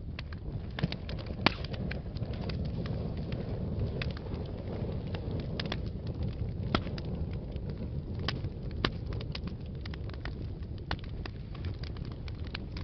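Fireplace fire crackling: frequent sharp pops and snaps at irregular intervals over a steady low rush of the flames, the loudest pop about a second and a half in.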